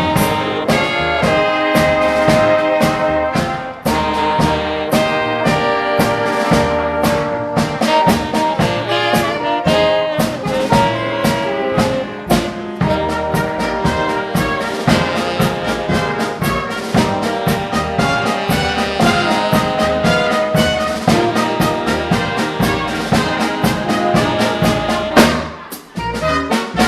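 Live big band playing a swing tune: trumpets and trombones carry the melody over a steady drum beat, with a short break in the sound about a second before the end.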